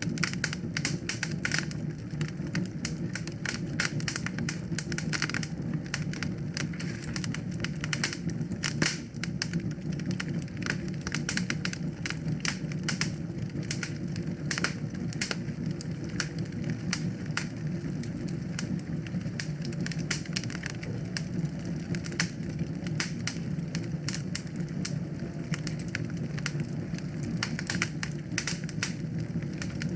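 Wood fire in a fireplace crackling, with frequent sharp, irregular pops over a steady low rush of burning.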